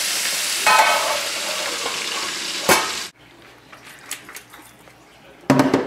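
Meat frying in hot oil in a pan: a steady sizzle with a sharp clink just before it cuts off abruptly about three seconds in. Quieter small clicks follow, then a brief clatter near the end.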